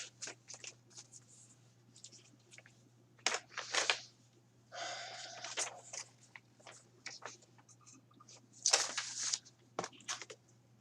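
Paper rustling and crinkling in irregular bursts as documents are handled, over a faint steady low hum.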